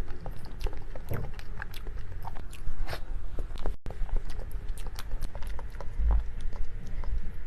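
Close-up eating sounds: a person biting and chewing a soft dessert, with many small clicks of the mouth. The sound drops out for a moment about halfway through.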